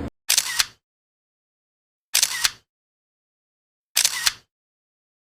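Camera shutter sound effect, three identical click-clack shutter sounds about two seconds apart, with dead silence between them.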